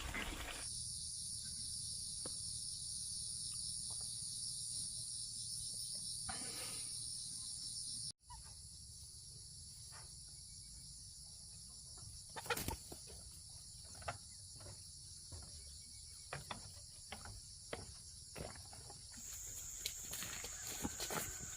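Insects droning outdoors in steady, high-pitched continuous tones, with faint scattered clicks and knocks in the second half.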